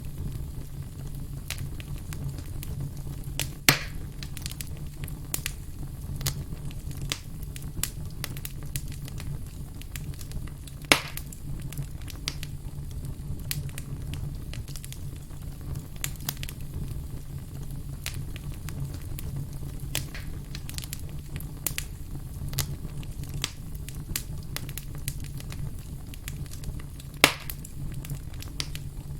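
Wood campfire crackling: a steady low rumble of the burning fire under many small crackles, with three louder pops, about four seconds in, about eleven seconds in and near the end.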